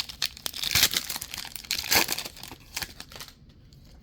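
Foil wrapper of a Pokémon card booster pack crinkling and tearing as it is handled and opened. The crackling is loudest in the first two seconds and dies down near the end.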